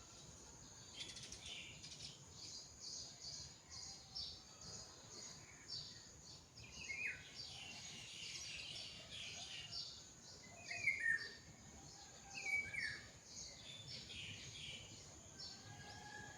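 Birds calling: a steady chorus of short, high chirps, with a louder call that sweeps downward repeated a few times.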